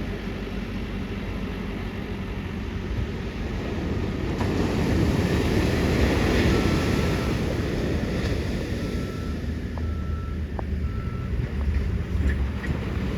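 Ocean surf: a wave breaks and washes in, swelling about a third of the way through and easing off, with wind on the microphone. Four short, faint beeps sound in the middle.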